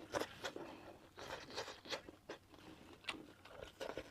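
Close-up eating sounds: a person chewing sticky brown-sugar-coated glutinous rice cake (ciba), with irregular wet mouth clicks and smacks.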